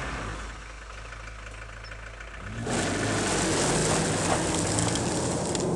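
Car engine running at idle, then revving up and getting louder about two and a half seconds in, holding a steady higher note.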